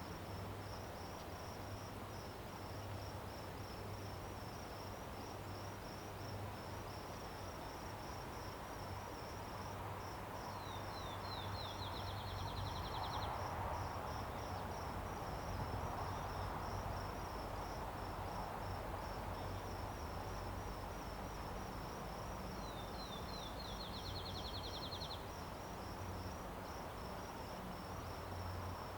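Crickets chirping in a steady, rhythmic pulse over a soft wash of background noise. A bird sings twice: a short phrase of a few quick notes running into a fast trill.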